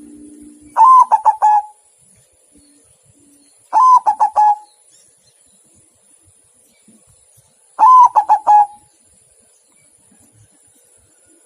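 Zebra dove (perkutut) cooing: three loud phrases of quick, stuttering notes, each under a second long, about three to four seconds apart.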